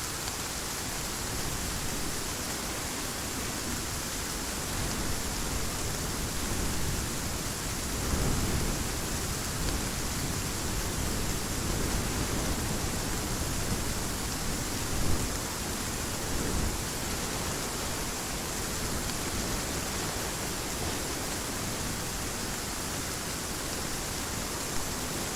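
Steady heavy rain with a few soft low rumbles of distant thunder, the clearest about eight seconds in.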